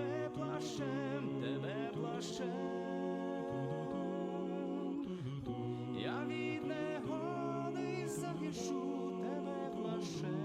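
Vocal music: a song sung in long held notes that slide from one pitch to the next.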